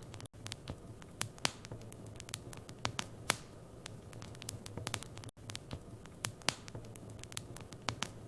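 Wood fire crackling in a fireplace: irregular sharp pops and snaps over a low steady hum. The sound cuts out for an instant twice.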